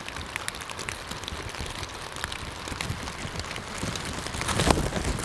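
Steady rain falling on a pond and nearby surfaces, heard as a constant hiss with many small drop ticks. A few louder knocks come about four and a half seconds in.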